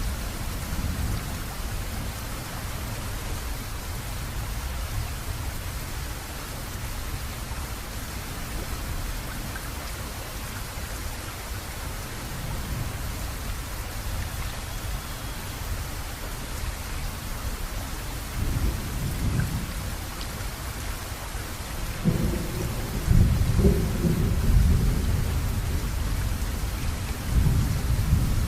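Steady heavy rain with thunder rumbling low underneath, the rumble swelling loudest about three-quarters of the way through and again near the end.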